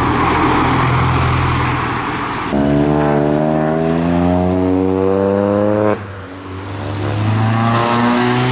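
Car engines accelerating. A rough, noisy exhaust sound for the first couple of seconds, then an engine revving with a steadily rising pitch that cuts off suddenly about six seconds in, and another rising engine note near the end.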